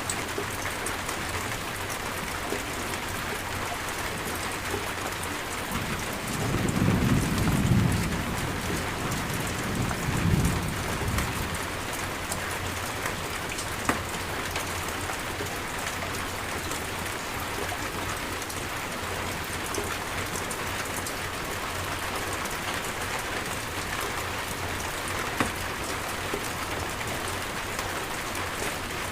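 Steady rain falling, with two low rolls of thunder about six and ten seconds in, the first the longer.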